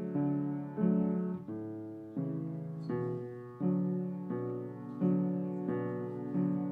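Piano playing slow chords, one struck about every two-thirds of a second and each fading before the next, with no singing.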